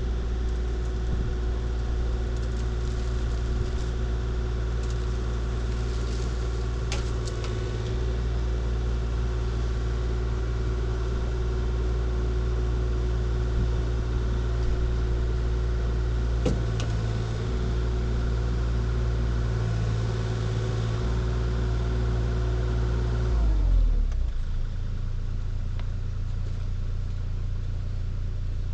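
Diesel engine of a piece of earthmoving equipment running steadily at working speed, with a couple of short sharp clicks, then throttling down to a lower idle, its pitch falling, about 23 seconds in.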